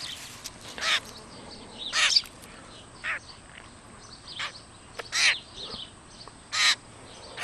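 Grackle giving a series of about six short, harsh calls spaced a second or so apart.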